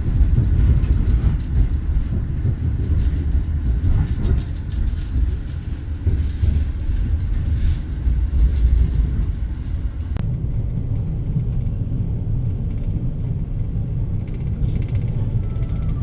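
KA Argo Bromo Anggrek express train running, a steady low rumble throughout. About ten seconds in, the higher hiss drops away suddenly and the rumble carries on.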